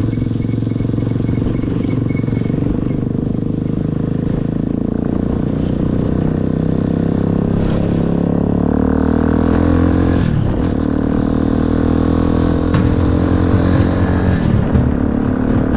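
Motorcycle engine running under way, its pitch climbing as it accelerates, dropping briefly about ten seconds in as it shifts gear, then climbing again.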